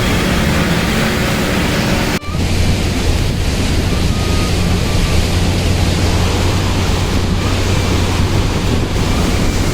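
Truck engine droning low and steady under a loud rushing noise of road and wind. About two seconds in, the sound breaks off for an instant and resumes.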